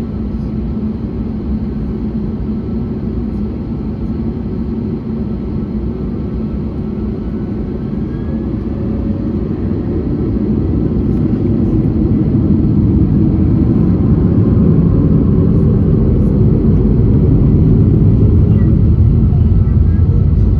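Steady low rumble of an Airbus A321neo and its Pratt & Whitney PW1100G geared turbofan engines, growing louder about halfway through and then holding.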